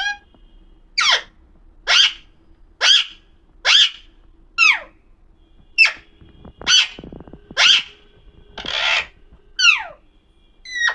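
Parrot giving a run of about eleven loud, harsh screeching calls, each a quick downward sweep in pitch, repeated roughly once a second.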